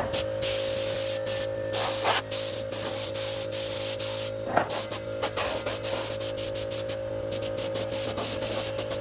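Spraying hiss in many short on-and-off bursts over a steady hum with a constant mid-pitched tone, typical of work with a spray gun or aerosol can.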